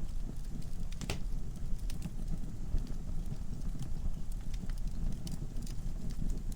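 Wood fire in a fireplace burning, a steady low rumble of flames with frequent small crackles and pops from the logs, one sharper pop about a second in.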